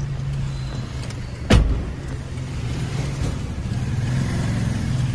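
Car engine idling steadily, heard from inside the cabin, with one loud thump of a car door shutting about one and a half seconds in.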